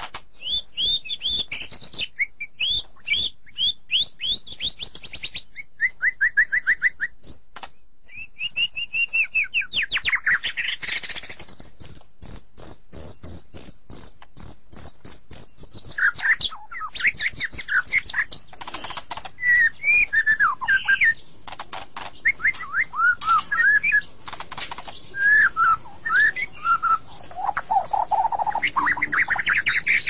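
Songbirds chirping and whistling in quick, varied phrases, with one long steady high whistle partway through and many small clicks.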